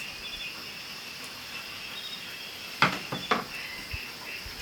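Night insects, crickets, chirping steadily in high pitch, with a few sharp clicks and knocks of something being handled about three seconds in.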